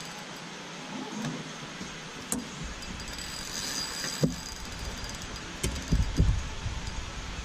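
A few dull knocks and thumps over a steady hiss, the heaviest cluster of thumps about six seconds in: handling noise in a small fishing boat.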